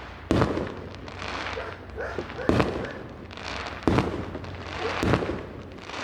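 Fireworks going off: four sharp bangs spaced about one to one and a half seconds apart, with a steady crackling in between.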